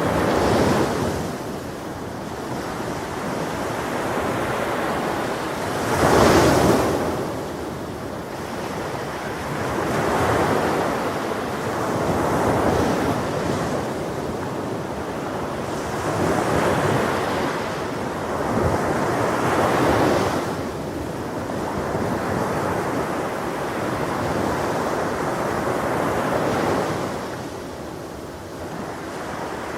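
Ocean waves breaking on a shore, swelling and washing back every few seconds, the biggest wave breaking about six seconds in. A little wind noise sits under the surf.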